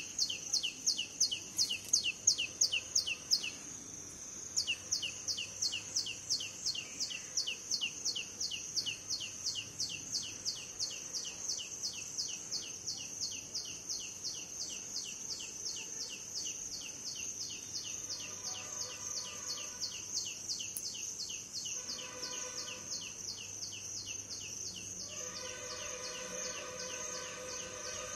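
A small bird chirping rapidly and without a break, about four or five short, high, falling chirps a second, loudest at the start and growing fainter. In the second half a steady pitched tone sounds three times, a couple of seconds each.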